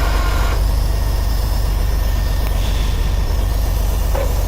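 Heavy tow truck's diesel engine idling with a steady low rumble. A fainter higher steady tone is there at the start and comes back near the end.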